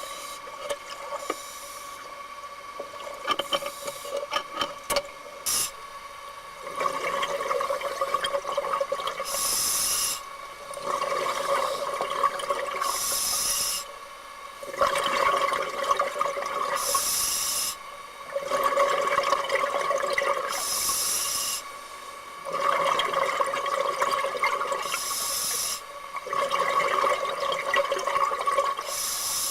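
Scuba regulator breathing underwater, with a rhythmic cycle of loud hissing breaths roughly every four seconds, each ending in a short high hiss. A few scattered clicks and knocks come in the first several seconds.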